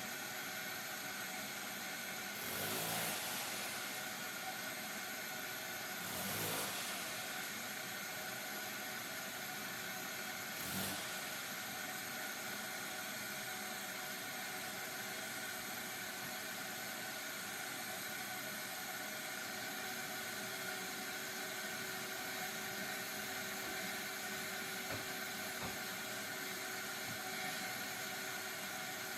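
Electric power tools running during demolition of a fireplace's fire brick wall: a steady motor whir, with three short louder bursts about three, six and eleven seconds in.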